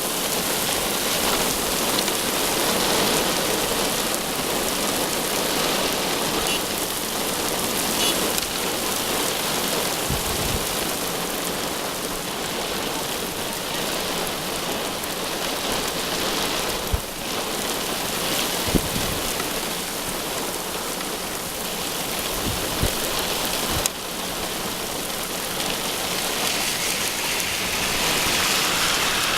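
Heavy thunderstorm rain pouring steadily, with a few sharp taps in the middle.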